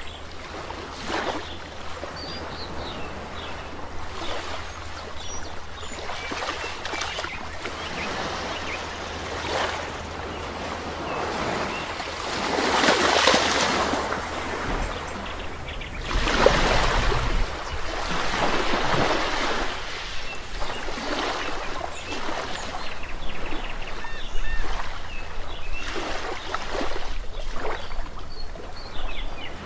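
Sea waves washing onto a shore in repeated surges, the biggest ones breaking about halfway through, with faint short bird calls in the background.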